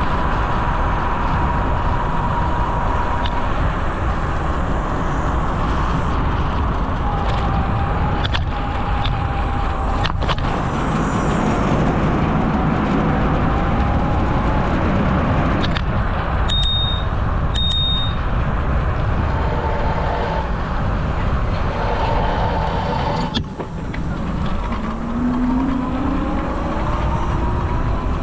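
Steady wind rush and rumble from riding a bicycle along a trail. A bicycle bell rings twice, about a second apart, roughly two-thirds of the way through.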